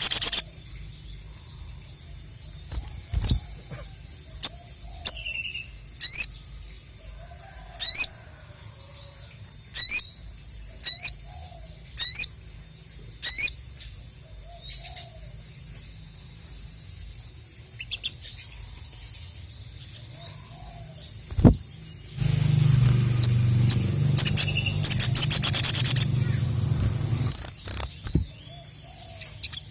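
Sogon (sogok ontong, ruby-cheeked sunbird) calling: sharp, high chirps and quick whistled glides given singly and in short bursts. About three quarters through comes a louder stretch of rapid chattering over a low rumble.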